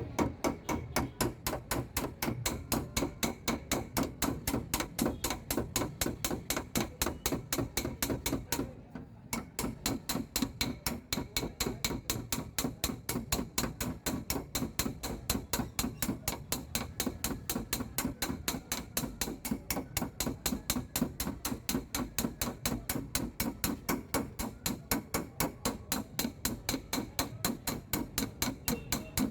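Rapid, light hammer taps on a car door's sheet-metal panel during paintless dent repair, as the dent is tapped out. The taps come at an even pace of about four a second, with a brief pause about nine seconds in.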